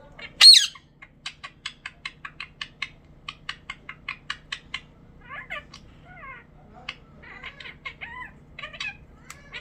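Pet budgerigar chattering: a loud sharp squawk about half a second in, then a quick run of clicks, about five a second, for some three seconds, then warbling chirps.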